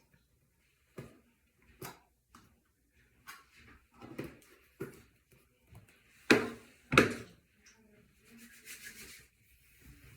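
Wave brush bristles sweeping over short lathered hair in separate rasping strokes. Two louder strokes come a little past the middle, then a quick run of softer strokes near the end.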